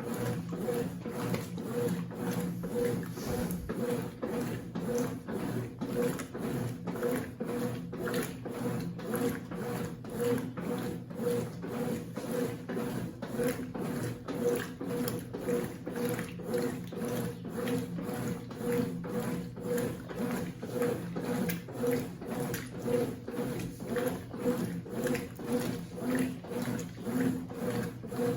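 Consul CWC08 8 kg top-load washing machine running a wash cycle with a bedspread inside: a steady motor hum with an even rhythmic churning about twice a second.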